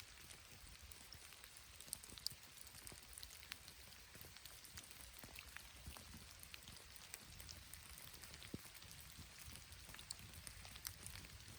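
Faint light rain pattering, a scatter of soft drip ticks over a quiet hiss, with a couple of sharper ticks about two seconds in.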